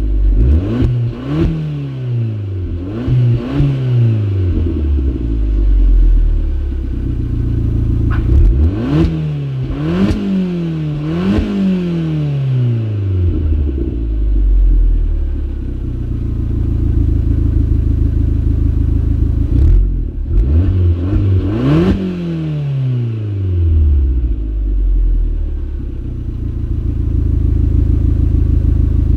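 Abarth 500's turbocharged 1.4-litre four-cylinder, heard through a Ferrita catback exhaust, revved in short blips that rise and drop straight back: a few near the start, three in quick succession in the middle and one more later, settling to a steady idle between them and at the end.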